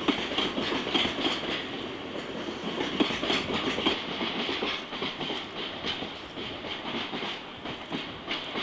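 Freight train of bogie coal hopper wagons rolling past, the wheels clacking over rail joints in an uneven clickety-clack.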